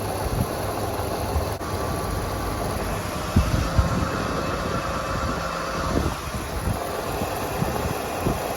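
Fuel pump dispensing diesel into a car's tank: a steady mechanical hum with low rumbling, and a faint whine for a few seconds in the middle.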